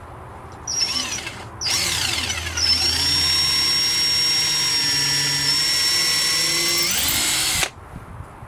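Power drill given a short burst, then spinning up with a rising whine and running at a steady speed for about five seconds before stopping abruptly.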